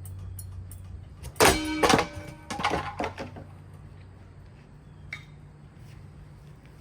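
Hampton Bay Waterton ceiling fan running with a steady low hum, struck by a cluster of loud metallic clangs that ring briefly about a second and a half in, then more clattering hits around three seconds and a smaller knock near five seconds.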